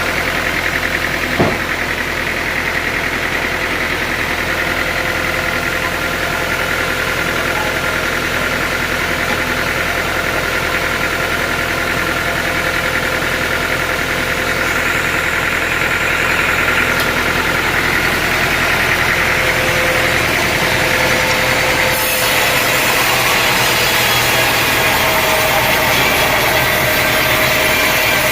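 Sawmill engine running steadily with a steady mechanical hum, a single sharp click about a second and a half in, and a slight change in the sound about 22 seconds in.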